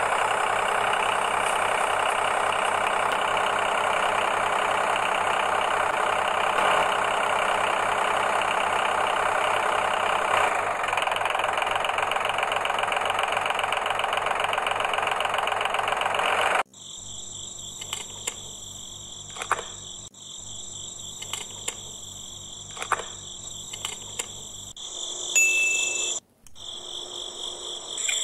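A small motor running steadily that cuts off abruptly a little over halfway through. What follows is quieter: a high, steady chirring with scattered clicks.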